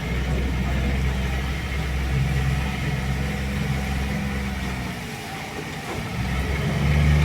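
Boat engine running with a low, steady drone. It fades about five seconds in, then builds again and grows louder near the end, as a boat passes or speeds up.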